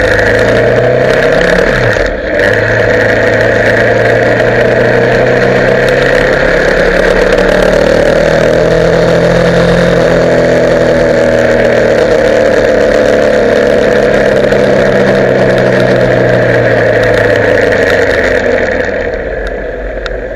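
Motorcycle engine running under way with a steady rush of wind and road noise. It drops out briefly about two seconds in, picks up again and holds a steady pace, then eases off and fades near the end.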